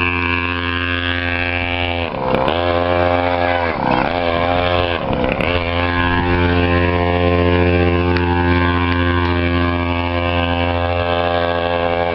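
Small engine of a kid-sized custom chopper motorcycle running steadily under throttle, its revs dipping briefly and coming back up three times, about two, four and five seconds in.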